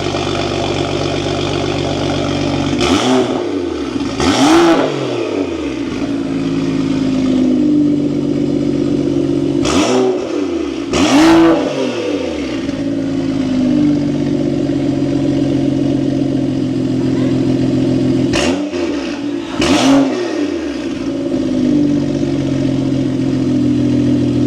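BMW 135i's turbocharged 3.0-litre straight-six idling through a newly fitted aftermarket valved exhaust, blipped three times in quick pairs of revs that rise and drop back to idle. Called so loud.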